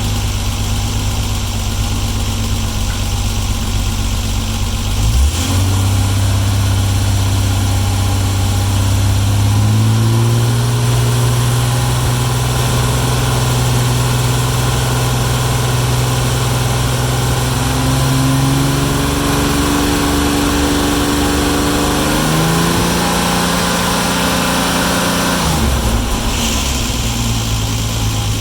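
Jaguar E-Type engine heard through new Bell stainless-steel mufflers, running steadily, then held at higher revs that climb in a few steps and fall back to the starting pitch a few seconds before the end.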